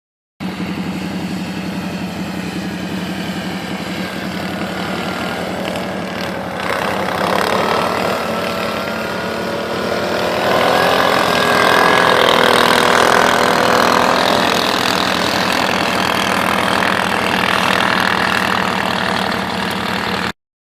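Engine of a quad fitted with snow tracks, running steadily at first, then revving harder about seven seconds in and again around ten seconds, with a whine that climbs in pitch.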